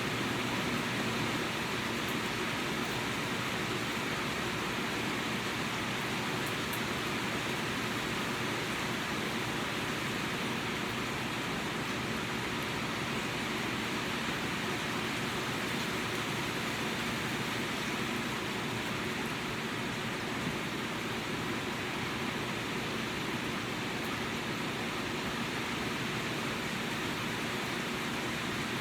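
Steady rain falling, an even continuous hiss with no pauses or changes in level.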